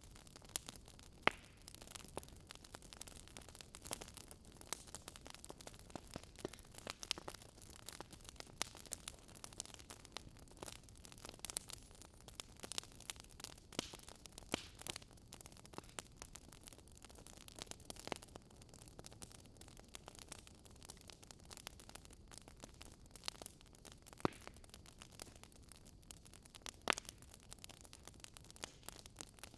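Wood fire crackling in a fireplace: irregular sharp pops and snaps, a few louder than the rest, over a soft steady hiss.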